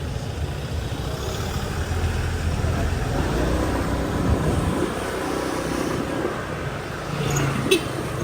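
Motorbike riding through city street traffic: engines running and road noise throughout, with a brief sharp sound near the end.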